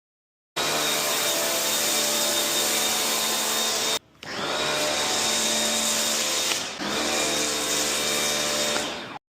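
Self-service car wash equipment running with a loud, steady rushing noise over a motor hum, breaking off briefly about four seconds in.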